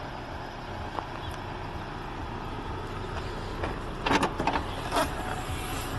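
Audi A6 2.0 TDI's four-cylinder diesel engine idling steadily, with a few sharp clicks and knocks about four to five seconds in.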